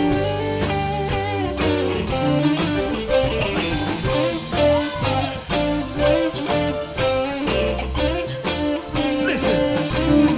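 Live soul band playing an instrumental break with no vocals: a guitar to the fore with bending notes over bass and a steady drum beat.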